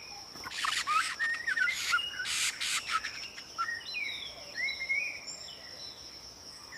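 Forest ambience: small birds chirping and calling in short, rapid phrases over a steady, high-pitched insect drone.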